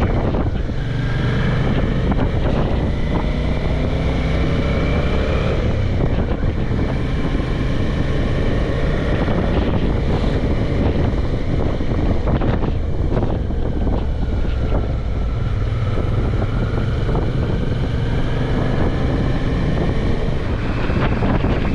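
Suzuki V-Strom motorcycle under way, its engine running with heavy wind noise on the microphone. The engine pitch drops and then climbs again about two-thirds of the way through.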